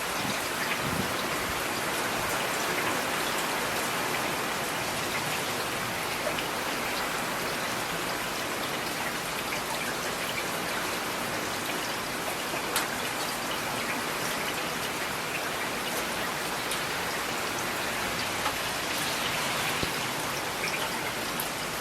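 Steady rain falling, an even hiss with scattered sharper taps of individual drops.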